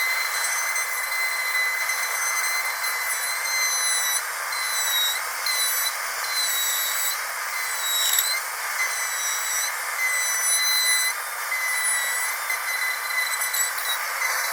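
Dentist's high-speed drill whining at a steady high pitch over a hiss, the pitch dipping briefly now and then, most sharply about eight seconds in.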